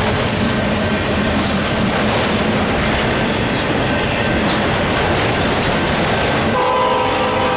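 Freight train rolling past at close range, a steady rumble and clatter of cars on the rails. About six and a half seconds in, a locomotive air horn, the lead Dash 9's five-chime Nathan K5HL, starts sounding a chord over it.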